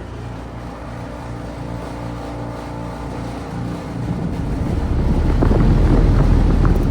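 2006 Carrier side-discharge air-conditioner condensing unit running with a steady low hum, then growing louder and rattling from about four seconds in as its condenser fan comes on again. The fan keeps cycling on and off, a malfunction put down to the unit running in cold weather.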